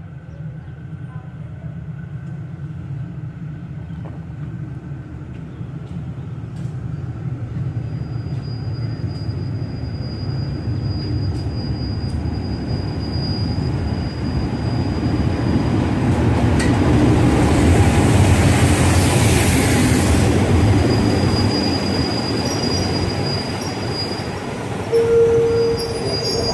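Diesel locomotive hauling a passenger train, pulling into a station as it slows to stop: its engine rumble grows louder as it approaches and passes. A thin, steady, high wheel squeal comes and goes, and there is a hiss as the locomotive goes by. A short loud tone sounds near the end as the carriages roll past.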